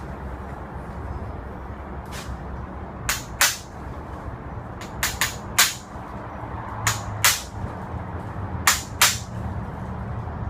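About a dozen short, sharp knocks from tools working on the metal parts of an old Yamaha Passol scooter being taken apart, several coming in quick pairs. A steady low hum runs underneath.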